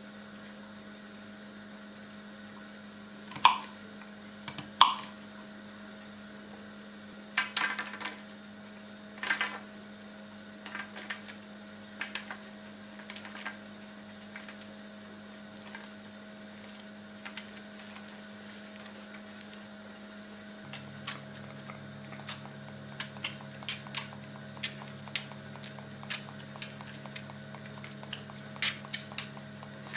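Kitchen handling sounds during cooking: a few sharp knocks in the first ten seconds, then many small clicks and taps near the end. Under them runs a steady electrical hum, and a second, lower hum starts about two-thirds of the way through, like an appliance being switched on.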